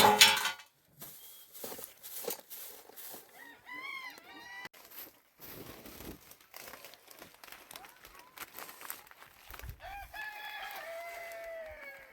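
Chickens calling and a rooster crowing, with a loud call right at the start and one long crow near the end that falls slowly in pitch.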